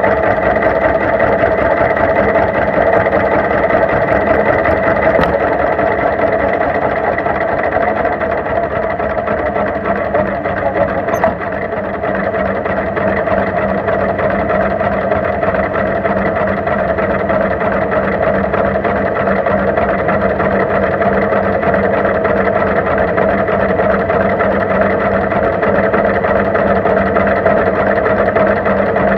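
Tractor engine running steadily, loud and close.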